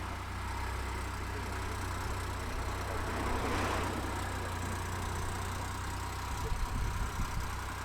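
Ford Puma's 1.0-litre three-cylinder EcoBoost mild-hybrid engine idling with a steady low hum, with a brief swell of noise about halfway through.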